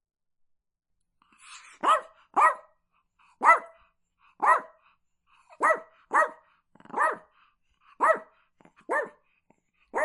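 Chihuahua barking: about nine short single barks, roughly one a second, starting a little under two seconds in.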